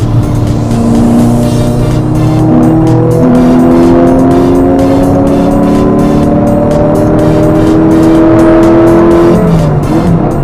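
Lotus Elise S2's engine heard from inside the cabin under hard acceleration: the pitch climbs, dips briefly at a gear change about three seconds in, then climbs steadily through the next gear before falling as the throttle lifts near the end.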